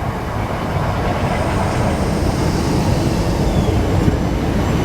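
A Class 465/466 Networker electric multiple unit running along the track, a steady rumble of wheels and motors that grows slightly louder.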